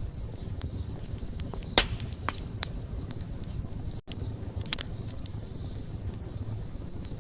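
Wood campfire crackling, with irregular sharp pops over a low steady rumble of the flames. The loudest pop comes a little under two seconds in, and the sound cuts out for an instant about four seconds in.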